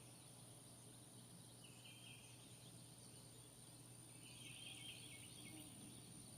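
Near silence: faint background hiss with soft, high-pitched chirping trills about two seconds in and again near five seconds.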